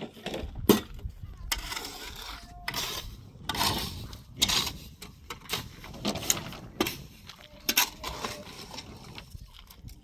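Hard objects knocking and clinking against each other, with stretches of scraping in between; the two sharpest knocks come about a second in and near the end.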